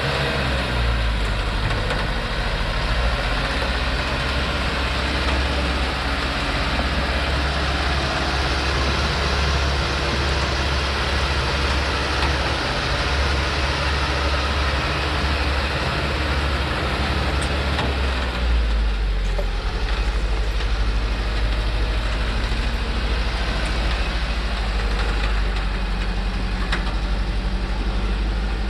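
Diesel engine of a loaded Thaco truck running steadily with a strong low rumble. The engine note changes about two-thirds of the way through, becoming lower with less hiss above it.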